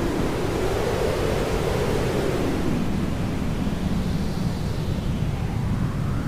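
Hair dryer running steadily: a constant rushing noise whose tone drifts slowly up and down.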